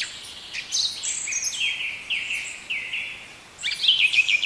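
Birdsong: a run of short whistled notes, each sliding downward, then a quicker flurry of notes near the end.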